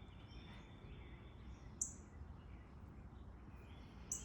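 A bird giving a few short, high chirps, the clearest about two seconds in and near the end, over faint steady outdoor background noise.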